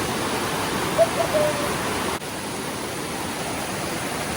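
Steady rushing of a fast, strong mountain river at a crossing, running high after a week of heavy rain. A short pitched sound cuts in about a second in.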